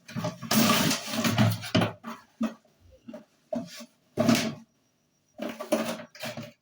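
Irregular handling noise: rustling and knocking as a boxed hammer drill and its packaging are handled, with the drill not running.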